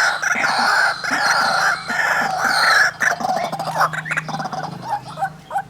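White-breasted waterhens, a male and a female, calling loudly with harsh repeated notes. Longer calls fill the first three seconds, then give way to shorter, quicker notes.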